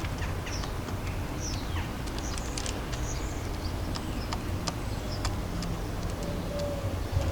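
Garden bird ambience: a few short, high chirps from small birds and scattered sharp taps and clicks, over a steady low rumble of distant city traffic.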